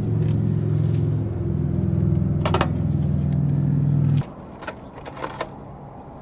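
A steady low mechanical hum, like a motor running, that cuts off suddenly about four seconds in. There is a sharp metallic click partway through and a few light metallic clinks after it stops.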